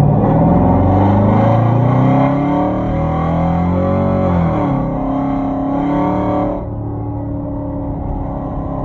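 Straight-piped Hyundai Genesis 5.0 V8 exhaust, with Flowmaster Super 10 mufflers and no catalytic converters, pulling hard with its pitch rising, then dropping as it upshifts about four and a half seconds in. Near the end the throttle is lifted and the exhaust settles to a lower, quieter drone.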